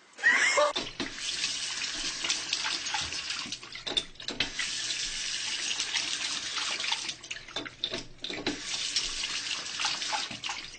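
Water running and splashing, as from a tap into a sink, with many small splashy clicks; it starts abruptly.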